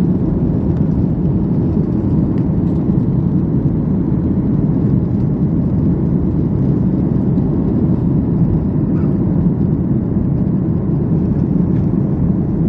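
Steady low rumble of a Boeing 737-800's CFM56-7B jet engines and airflow, unchanging, as the airliner climbs after take-off.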